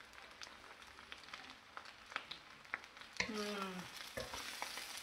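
Fried rice sizzling faintly in a hot pan, with scattered small crackles and clicks. A person's voice makes a short sound about three seconds in.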